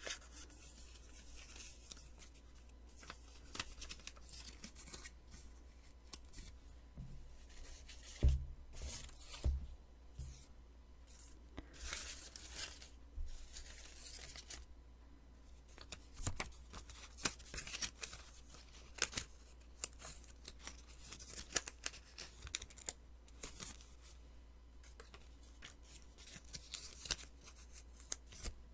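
Post-it sticky notes being peeled and handled close to the microphone: a long run of short, crackly sticky rips. There are two dull bumps about eight and nine and a half seconds in.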